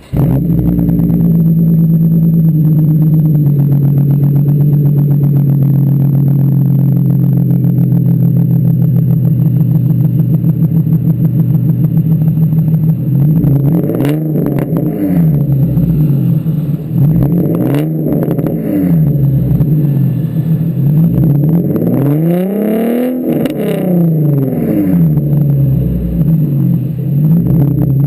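Nissan 350Z's 3.5-litre VQ35HR V6 through a decatted, straight-piped Borla exhaust, firing up suddenly and holding a steady fast idle. After about thirteen seconds it is blipped repeatedly, each rev rising and falling, with a longer, higher rev near the end.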